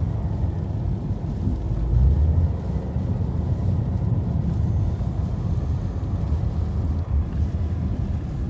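Wind buffeting the microphone: a loud, uneven low rumble that swells and eases, strongest about two seconds in.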